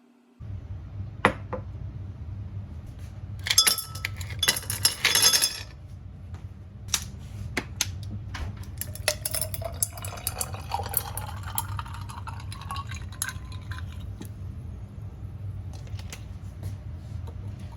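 Glasses and dishes clinking, with a dense run of clinks about four to five seconds in. Then liquid is poured into a glass, its pitch rising slowly as the glass fills, over a steady low hum.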